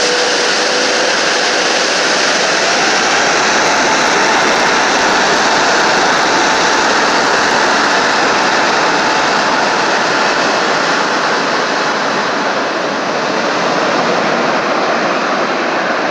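Airbus A380's four jet engines running close by: loud, steady jet noise with a high engine whine near the start that glides up slightly and fades out.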